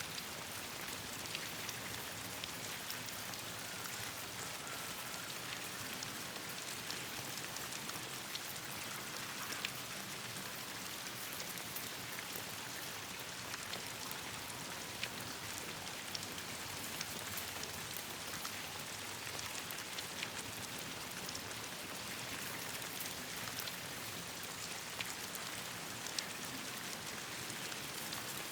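Steady rain falling on leaves, mixed with the crackle of a campfire: scattered sharp ticks and pops, a few of them louder.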